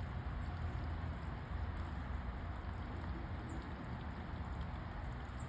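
Small garden fountain trickling and splashing steadily.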